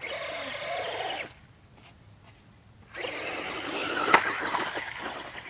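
Electric RC car's motor whining with a rising pitch over hiss for about a second, then quiet, then a longer run of motor and tyre noise with one sharp knock a little after four seconds in.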